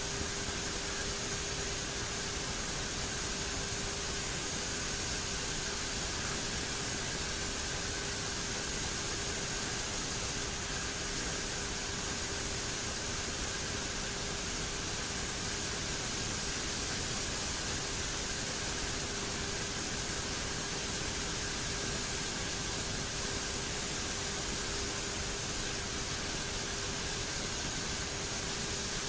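Steady cockpit noise of a twin turboprop aircraft in its climb: an even rushing hiss of engines and airflow, with a constant low hum and a fainter high whine that hold unchanged throughout.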